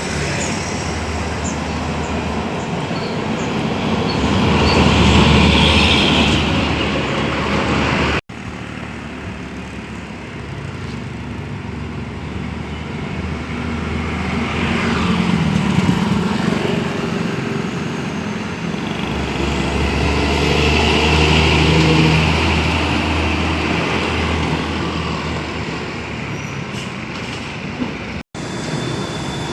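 Road traffic with heavy diesel trucks passing one after another, their engine rumble swelling and fading as each goes by. It comes in three stretches split by two abrupt cuts, about eight seconds in and near the end.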